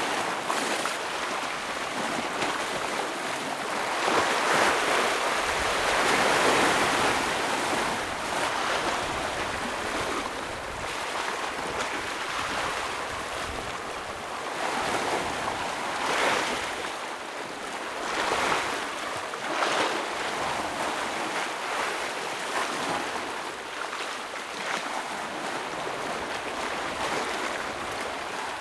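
Ocean waves breaking and washing over rocks on a rocky shore: a continuous surf wash that swells in surges, loudest about five seconds in, with shorter splashes later.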